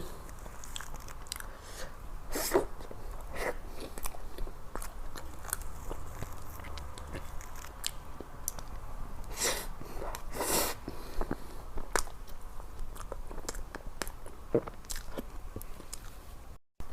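Close-miked eating sounds: a person chewing, with many small wet mouth clicks and a few louder mouth sounds about two and a half seconds in and around ten seconds in.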